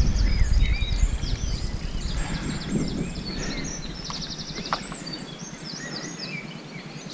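Songbirds singing: many short chirps and whistled sweeps, with a fast trill about four seconds in. A low rumble runs under the first half and drops away past the middle.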